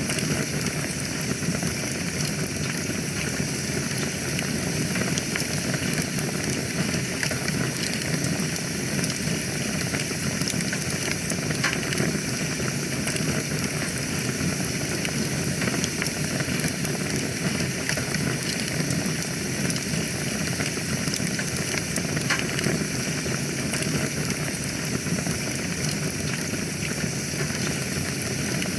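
Wood fire burning in a fireplace: a steady hiss and low rumble of flames with scattered sharp crackles and pops.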